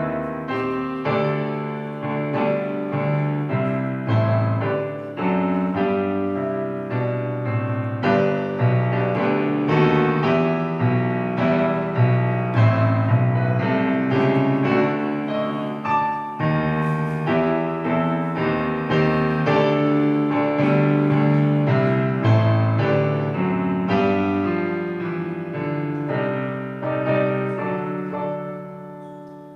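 Solo piano music: melody over chords, played continuously, with the phrase dying away near the end.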